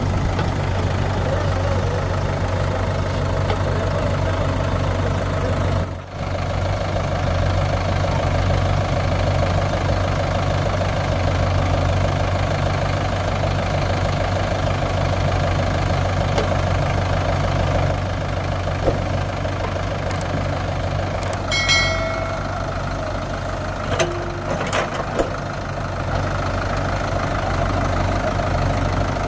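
Mahindra 585 DI tractor's four-cylinder diesel engine running steadily with a deep hum. A short high-pitched tone sounds about two-thirds of the way through.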